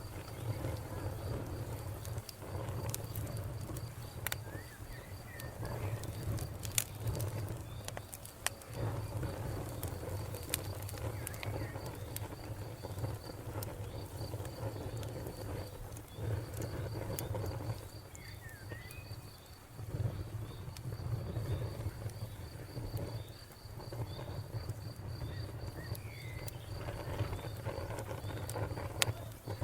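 Wood fire burning with a steady low rumble and scattered crackles and pops, a few of them sharper, between about 4 and 9 seconds in. A cricket chirps steadily alongside, briefly pausing about midway.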